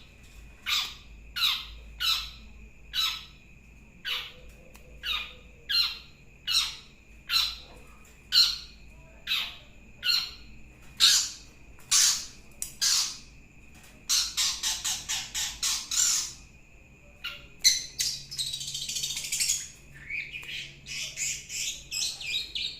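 Long-tailed shrike (cendet) giving a series of harsh, downward-sweeping calls about one every 0.7 seconds, then a fast rattle of calls partway through, followed by a scratchy chatter and varied twittering near the end.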